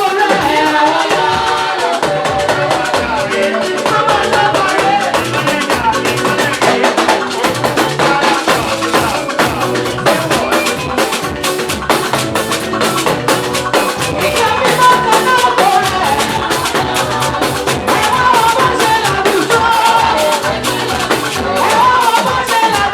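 Gospel praise band playing, with a singing voice over a fast, steady beat of drums and shakers.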